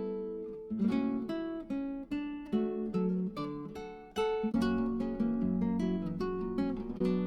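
Background music of plucked acoustic guitar, notes picked in a light steady rhythm.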